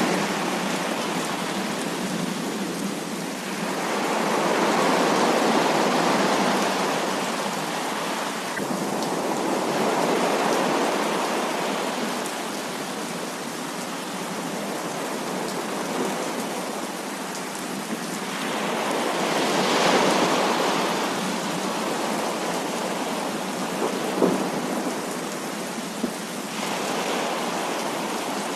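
Heavy rain falling steadily, with slow swells of rolling thunder rising and fading a few times. Two brief sharp ticks come near the end.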